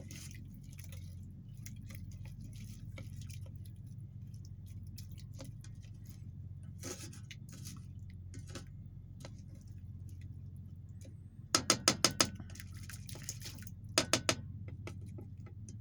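Light clinks of stirring in an Instant Pot's inner pot over a steady low hum. Near the end come two quick runs of short electronic beeps from the cooker's control panel as its buttons are pressed: about six, then about three.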